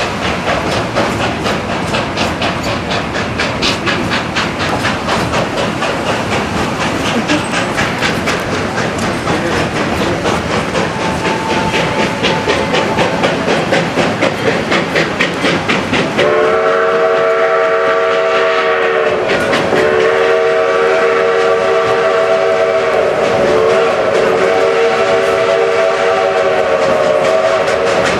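Narrow-gauge steam locomotive No. 40 working hard uphill, its exhaust chuffing in a quick, even beat. About sixteen seconds in, its chime whistle sounds several notes at once in a long blast. The whistle breaks off briefly, then holds on to the end.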